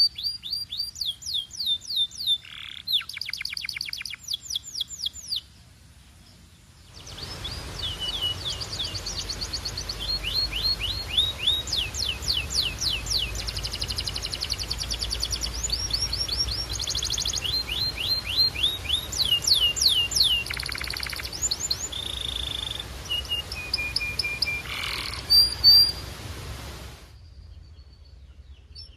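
Belgian canary singing: rapid trills of quickly repeated falling notes, strung together with short pauses, with a brief lull a few seconds in. A steady background hiss comes in with the song after about seven seconds and drops away near the end.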